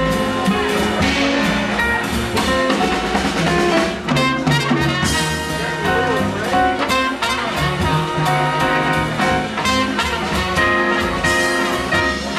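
Live jazz quintet playing: horn lines held over a drum kit with steady cymbal strokes, backed by piano and acoustic bass.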